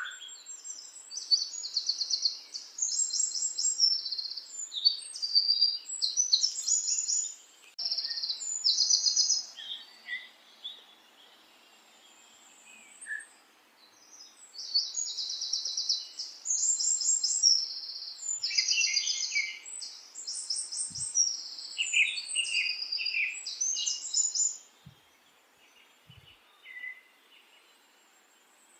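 A small songbird singing in fast, high chirping and trilling phrases, with pauses of a few seconds between runs of song.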